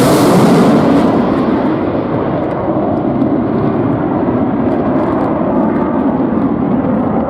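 Military jet's roar just after it passes overhead. A loud hiss fades within about a second and a half, leaving a steady low rumble as the jet moves away.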